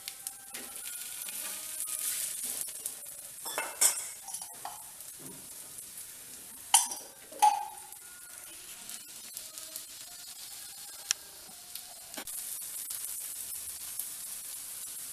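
Wheat-flour rottis sizzling on a hot tawa, with a steel spatula scraping and clinking against the pan several times.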